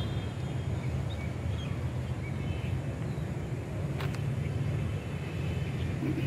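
Low, steady rumble of a passenger train rolling along, heard from aboard the coach, with one sharp click about four seconds in.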